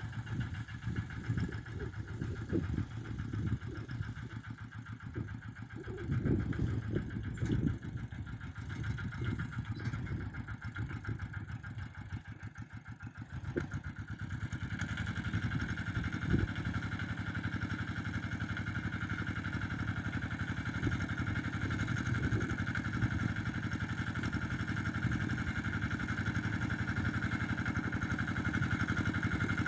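Walk-behind two-wheel tractor's engine running while it pulls a plough, uneven for the first half and then steady and a little louder from about halfway through.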